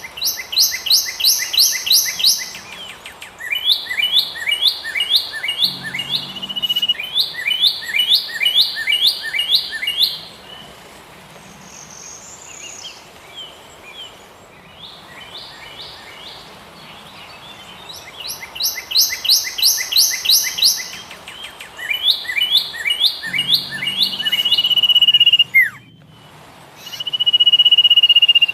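Songbird singing loud phrases of quick, repeated high notes, each phrase a few seconds long. A quieter stretch in the middle holds fainter birdsong, and near the end come long held high notes.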